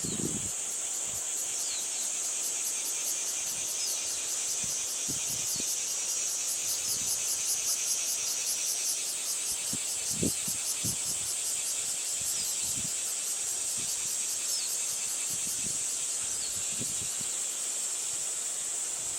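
A steady, high-pitched chorus of insects singing outdoors, with a fast pulsing trill that swells in the middle, and short falling chirps every second or two. Gusts of wind thump on the microphone now and then, hardest about ten seconds in.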